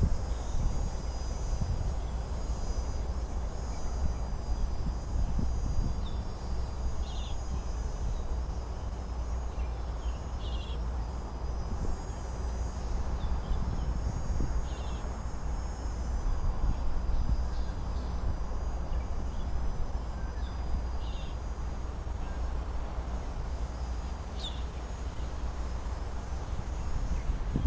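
Wind buffeting the microphone as a steady low rumble, with a thin, steady high-pitched whine and a few short chirps above it.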